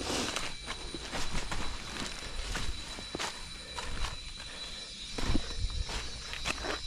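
Footsteps crunching through leaf litter on a jungle trail, at an uneven pace, over a steady thin high-pitched tone.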